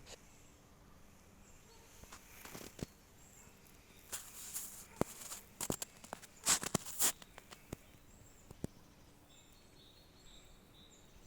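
Footsteps crunching irregularly through the forest floor, loudest in a run of steps in the middle, over quiet forest ambience with faint, high bird chirps.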